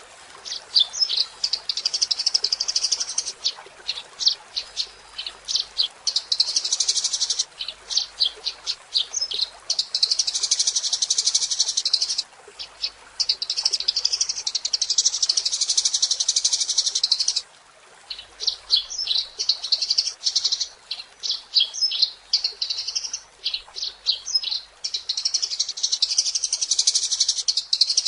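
Eurasian tree sparrows chirping, with long runs of fast chattering trills and separate sharp chirps in between, and two short pauses midway.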